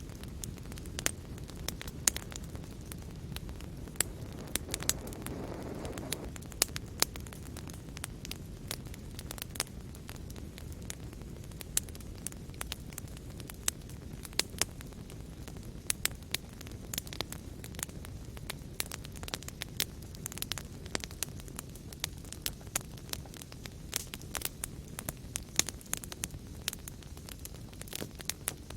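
Fireplace fire crackling: a steady low rush of flame under frequent sharp pops and snaps, several a second, with a brief soft swell in the rush about five seconds in.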